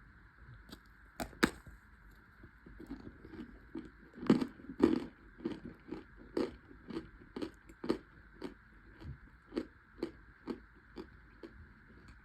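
Close-up crunching of toasted, baked cornstarch chunks being bitten and chewed: a few loud sharp crunches about a second and a half in and again around four to five seconds in, then steady chewing crunches about twice a second.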